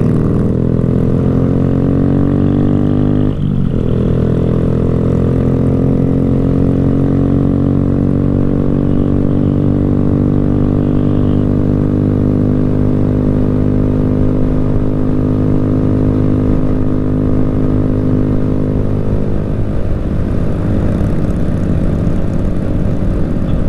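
Motorcycle engine accelerating, its pitch rising, with a gear shift about three seconds in, then pulling on and holding a steady speed.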